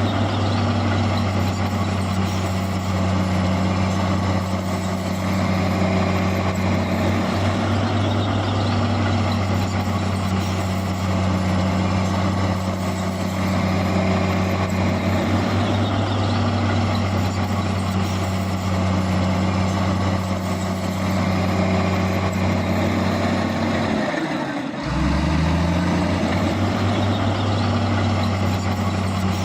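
Heavy diesel engine running steadily under load, a strong low drone. Near the end its note drops sharply for a moment, then climbs back to the same steady pitch.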